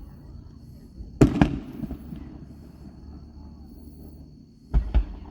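Fireworks exploding overhead: two booms close together a little over a second in, and two more close together near the end, each pair with a low rumble trailing off.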